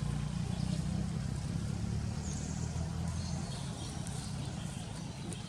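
A motor vehicle's engine running low and fading away, with faint short high chirps above it.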